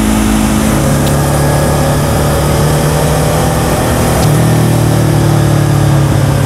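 Motorcycle engine running at fairly steady revs under a haze of riding noise. Its pitch shifts slightly about a second in and again about four seconds in.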